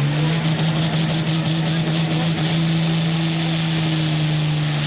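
Hot stock pulling tractor's engine running hard at high revs. Its pitch steps up at the start and then holds steady, with a high whine slowly climbing above it.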